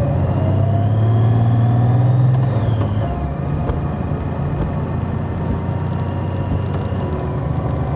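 Large motorcycle engine running under way, the revs climbing for about two seconds and then dropping off about two and a half seconds in, over steady wind and road noise.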